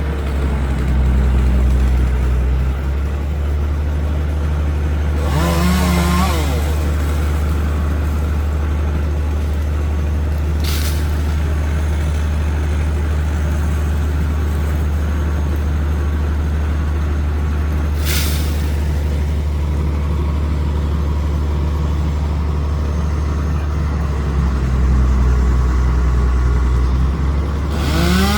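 Bucket truck's engine running steadily with a deep drone. A chainsaw revs briefly, rising and falling in pitch, about five seconds in. Two sharp knocks come later.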